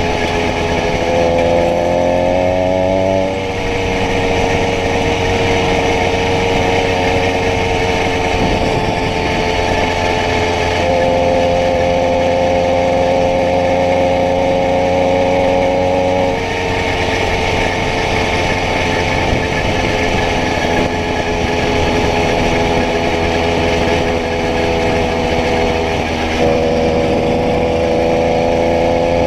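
80cc motorized-bicycle kit engine running steadily, its pitch shifting slightly up and down a few times as the throttle changes.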